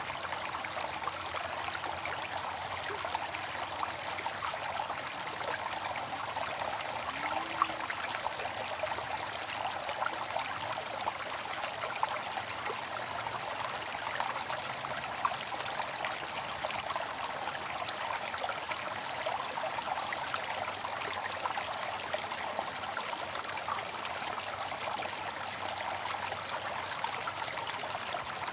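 Water fountain running steadily, water splashing and trickling into a basin in an even, continuous patter.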